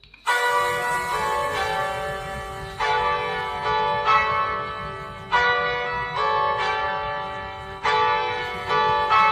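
Bell-like chimes playing a slow tune. Clusters of notes are struck every one to two seconds, and each rings on and fades before the next.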